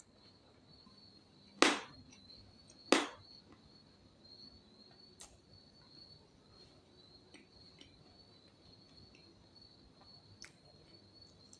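A steady, faint, high-pitched insect drone, like crickets, with two loud sharp clicks about a second and a half apart near the start and a few faint ticks later.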